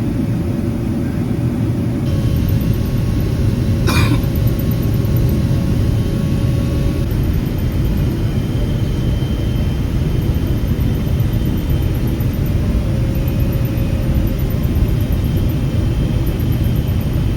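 Steady low rumble of a Boeing 777-300ER's engines and air flow heard inside the passenger cabin, with a brief click about four seconds in.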